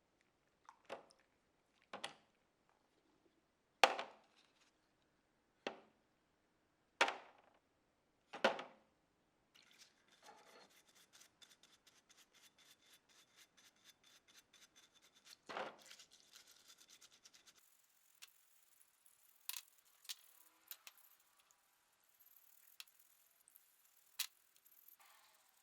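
Hand-tool work on the parts of a Stanley hand plane: about seven separate short scraping strokes, then a fast run of tiny ticks from about ten seconds in, and a few sharp clicks near the end.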